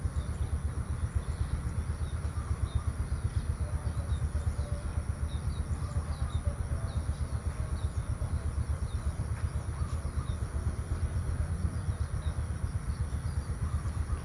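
Outdoor field ambience: a steady, wavering low rumble with faint bird chirps repeating high above it.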